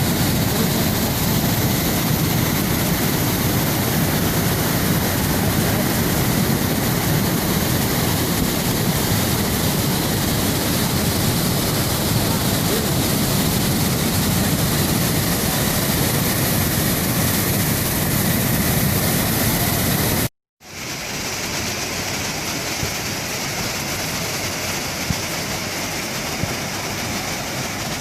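Steady, loud rushing of a waterfall. It cuts out for a moment about twenty seconds in and comes back slightly quieter.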